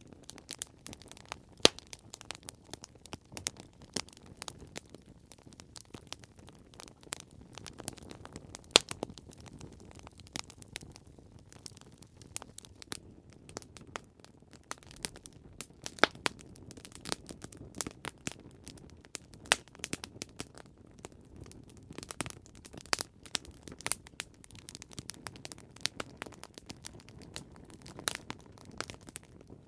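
Wood fire crackling: irregular sharp pops and snaps over a low, steady hiss of burning, with a few louder pops scattered through.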